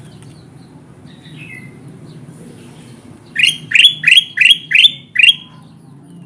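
Kutilang emas bulbul calling. Faint scattered chirps give way, about halfway through, to a quick run of six loud, short rising notes, each sweeping upward. A low steady hum sits underneath.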